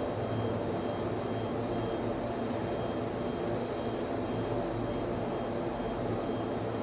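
Server room ambience: the steady whirr of cooling fans and air handling, with a low hum and a faint high tone pulsing about once a second.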